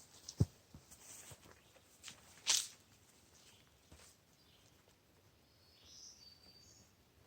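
Faint outdoor rustling and handling noises in woodland, with a dull thump about half a second in and a short brushy swish about two and a half seconds in; a bird chirps briefly near the end.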